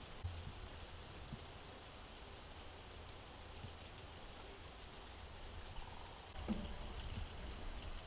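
Faint outdoor ambience: a small bird gives short, high, falling chirps about once every second or two over a low wind-like rumble, with a soft knock about six and a half seconds in.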